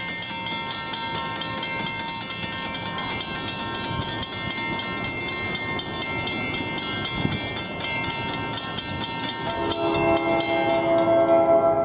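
Grade-crossing bell ringing rapidly and steadily as a train approaches, then a train's air horn sounds a chord of several notes about nine and a half seconds in, louder than the bell.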